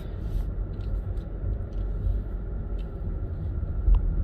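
Steady low rumble of a car driving, heard from inside the cabin, with a single knock near the end.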